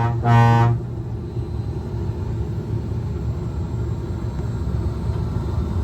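Steady low hum in the cab of a Disneyland Mark VII monorail. Near the start there is one short, flat tone lasting about half a second, which is the loudest sound.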